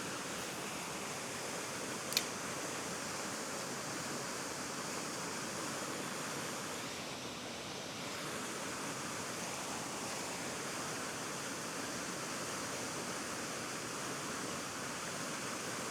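Steady rushing noise of flowing river water, with one sharp click about two seconds in.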